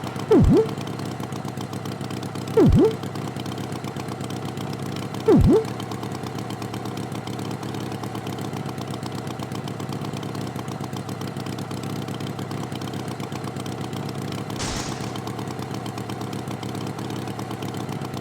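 Tractor engine sound effect idling steadily, as for the animated tractor. Three short, loud swooping sounds that drop in pitch and rise again come in the first six seconds, and a brief hiss comes near the end.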